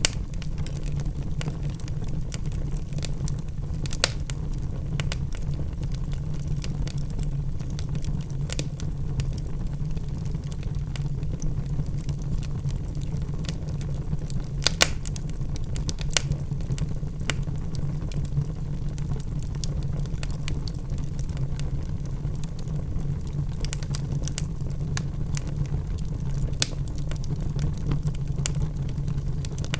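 Logs burning in a fireplace: a steady low rumble of the flames with irregular crackles and pops from the wood, a few sharper snaps about four seconds in, around fifteen and sixteen seconds in, and near twenty-six seconds.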